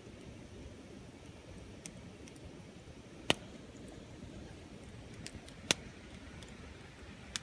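Wood bonfire crackling: scattered faint ticks and two loud sharp pops about two and a half seconds apart, with a smaller pop near the end, over a low steady noise.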